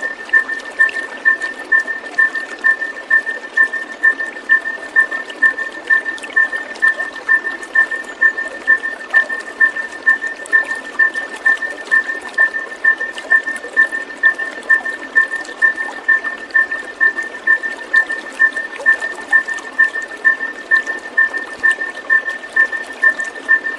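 Running water, with a loud, regular pulse at two fixed pitches repeating about two and a half times a second, unchanged throughout. It is a looped calming soundscape used to condition captive white-rumped shamas.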